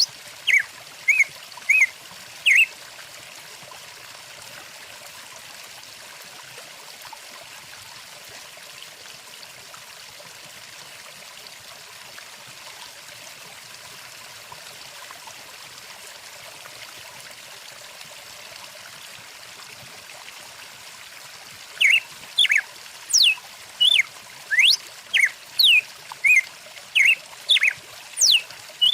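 Steady rushing of a stream, with a songbird singing rapid runs of short, high whistled chirps, some sweeping up or down in pitch, briefly at the start and again, thickly, over the last several seconds.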